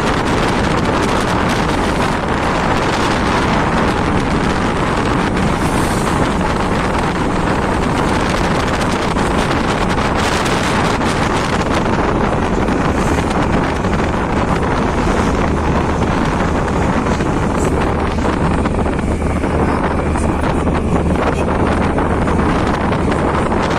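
Steady, loud wind buffeting the microphone, with a steady low engine hum joining about two-thirds of the way in.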